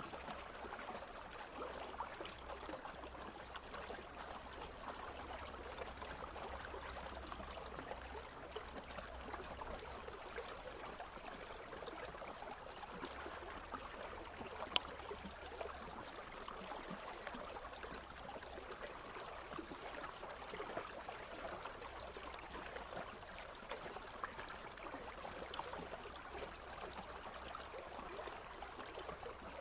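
A country stream flowing steadily as ambient white noise, with one short click about halfway through.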